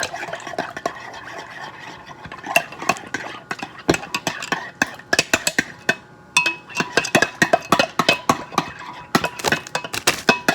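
A metal spoon stirring a gelatin mixture in a cup, clinking rapidly and repeatedly against the sides.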